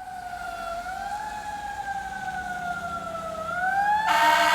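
Fire engine siren wailing, its pitch sliding slowly down and then up, growing louder as the engine approaches. Near the end a loud horn blast cuts in over the siren.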